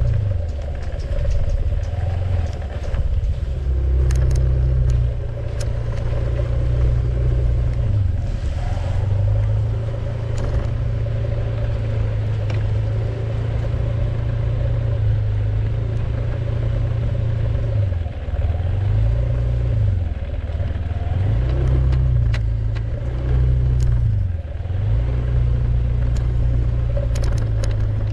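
Vehicle engine running while driving, its pitch falling and rising several times about two-thirds of the way through, with scattered clicks and rattles.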